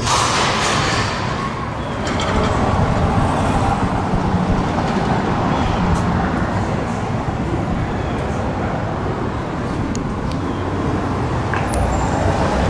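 Motor vehicle running with steady road traffic noise.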